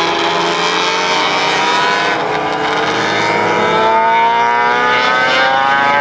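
Classic racing motorcycle engine pulling hard under acceleration, its pitch rising steadily as it revs up.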